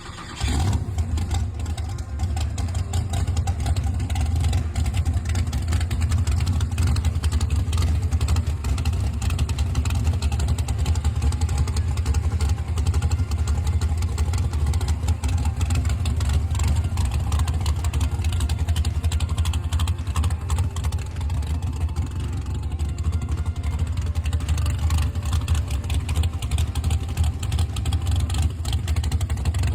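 A dragster's Morrison 540 V8 running steadily with a low, rough rumble.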